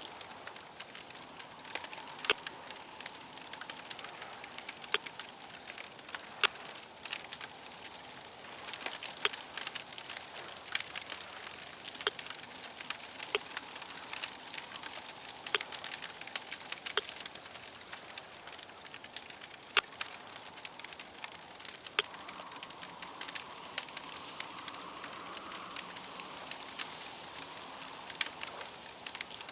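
Crackling fire: a steady hiss with irregular sharp crackles and pops scattered throughout.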